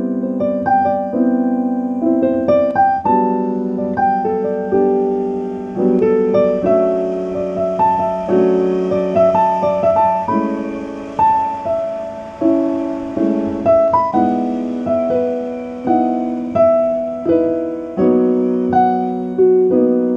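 Piano music: chords and melody notes struck at an even pace, each decaying after it is played.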